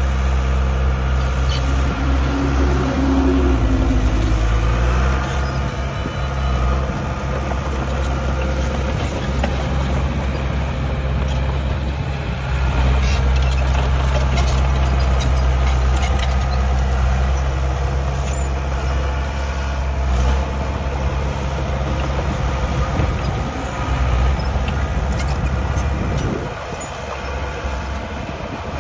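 Diesel engine of heavy earthmoving machinery running steadily under load, with scattered clanks and knocks. It eases off briefly near the end.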